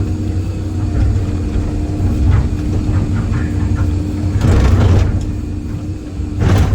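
Excavator's diesel engine running steadily under load, with two loud crunching bursts, one about four and a half seconds in and a sharper one near the end, as concrete is broken and shoved by the bucket.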